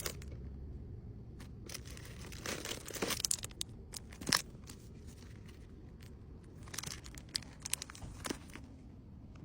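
Packaging being handled: short bursts of crinkling and rustling with a few small clicks, in two clusters separated by a quieter stretch.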